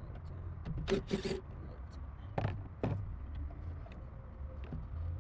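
Hand tools working on engine-bay fasteners: a short scraping burst about a second in, then two sharp metallic knocks, over a steady low rumble.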